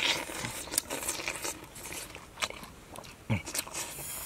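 A person biting into and chewing juicy wild pineapple fruit, with irregular wet crunching and smacking sounds.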